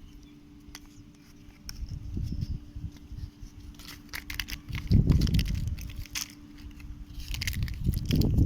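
Sand being crushed and crunched, in irregular gritty bursts with small crackles, loudest about five seconds in and again near the end. A faint steady low hum runs underneath.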